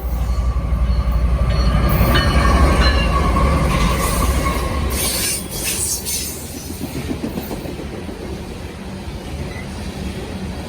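Norfolk Southern freight train's diesel locomotives passing close by with a heavy low rumble, loudest in the first five seconds and then easing as the cars roll on. A thin wheel squeal sounds for the first few seconds, with rail clatter from the wheels throughout.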